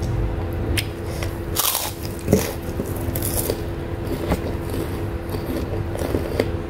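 Close-up eating: chewing with crunchy bites, the loudest crunches about a second and a half and three seconds in, over a steady low hum.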